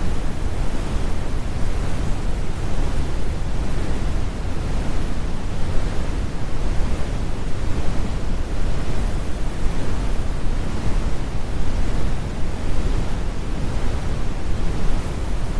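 Synthetic brown noise: a steady, deep rumble of even noise, weighted to the low end with the highs rolled off.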